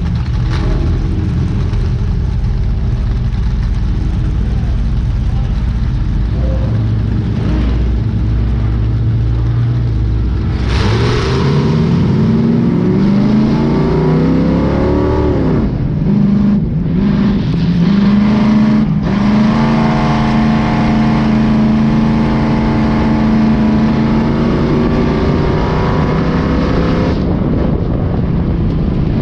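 Race vehicle engines rumbling low for about ten seconds, then revving hard about eleven seconds in and pulling away. They hold high revs, with the pitch climbing and briefly dropping a couple of times.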